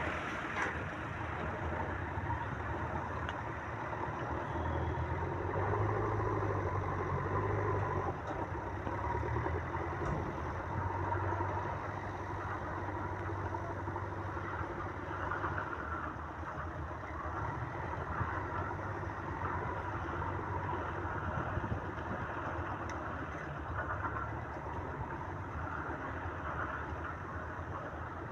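Diesel engine of a JCB 3DX backhoe loader (74 hp) running steadily.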